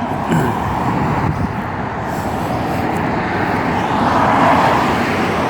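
Road traffic going by, a steady rush of tyre and engine noise that swells near the end as a vehicle passes close.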